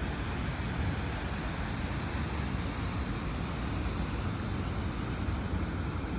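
Wind buffeting the microphone outdoors: a steady low rumble of noise with no distinct events.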